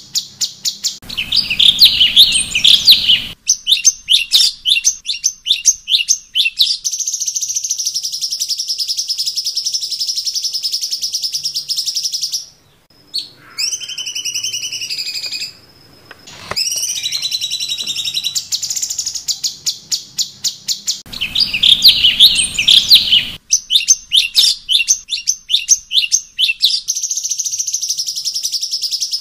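Cucak cungkok songbird singing: a rapid, high-pitched chattering trill broken by a few gliding whistled notes near the middle. The same phrase sequence comes round again about twenty seconds later, as in a looped training recording.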